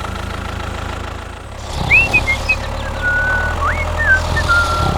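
A small motor running steadily with a low hum. From about two seconds in, a few thin whistle-like notes sound over it, some gliding and some held.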